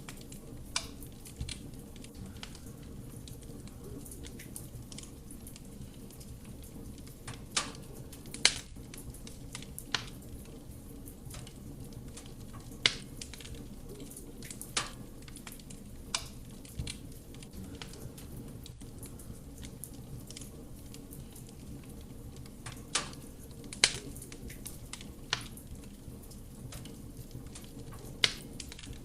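Wood fire burning in a fireplace: a steady low rumble of flame with sharp, irregular crackles and pops from the burning wood, a few of them louder than the rest.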